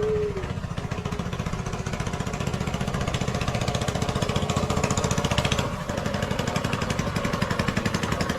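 Ferry's engine running steadily with a rapid, even thudding beat; its sound changes briefly near six seconds in, then carries on.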